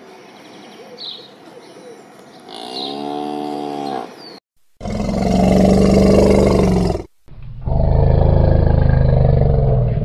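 A cow moos once, a pitched call that rises and falls, about two and a half seconds in. Then, after a short silence, an elephant gives two long, loud, low rough calls one after the other.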